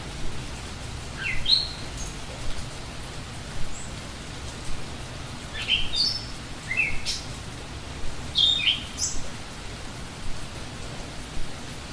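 A songbird calling in four short phrases of quick rising notes, about a second in, near six seconds, near seven seconds and near nine seconds, over a steady hiss of rain.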